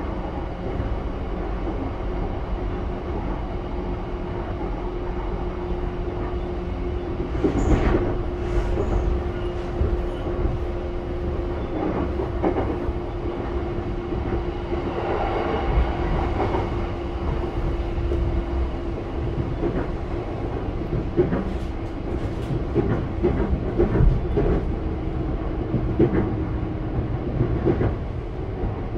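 Running noise inside a JR East E235-1000 series electric train's motor car, fitted with Mitsubishi full-SiC VVVF drive: a steady rumble of wheels on rails with a steady hum that drops out near the end, and scattered clicks from the rails, several in the last part.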